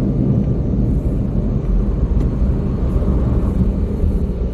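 Car being driven, a steady low rumble of engine and road noise heard from inside the cabin.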